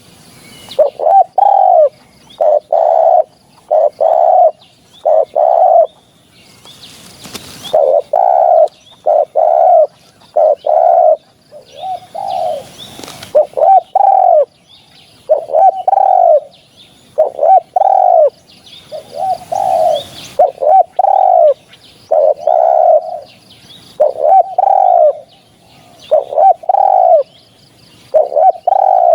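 Spotted dove cooing over and over, short low coo notes coming in quick runs with brief gaps between them. A lure-call recording of the species' territorial song.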